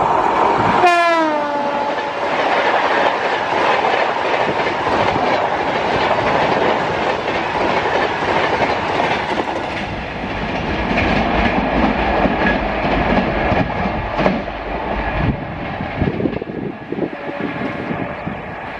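WAP7 electric locomotive hauling the Shatabdi Express past at speed, its horn sounding and dropping in pitch as it goes by in the first couple of seconds. The coaches follow with a steady rumble and clickety-clack over the rail joints.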